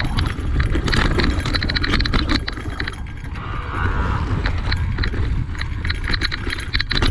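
Electric mountain bike rattling and clicking as it rides over rough, rocky trail, with a constant low rumble of wind on the microphone.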